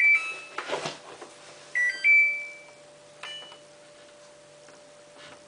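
Samsung WF8804RPA washing machine's control panel beeping: a short two-note beep at the start and a longer two-note beep about two seconds in, with a few clicks and a faint steady hum behind.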